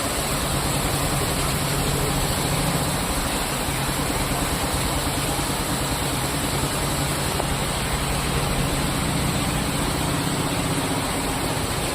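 Rain falling steadily as an even hiss, with a low steady hum underneath.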